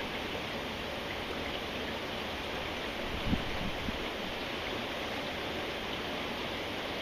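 Steady rain falling, an even hiss, with a brief low thump a little over three seconds in.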